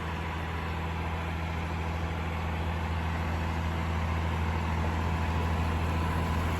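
Diesel engine of a Cat 352 excavator piling rig idling with a steady low hum.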